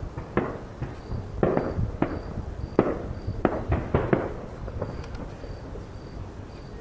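Aerial firework shells bursting: a rapid string of sharp booms, each trailing off in a short rumbling echo, coming thick for the first four seconds and then thinning out.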